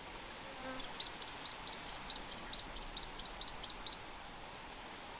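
A small songbird singing a fast, even series of about fourteen identical high notes, roughly four to five a second, starting about a second in and lasting about three seconds.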